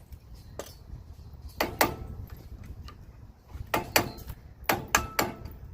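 Hand tools knocking and clinking against metal parts, about eight sharp knocks at uneven intervals, some in quick pairs.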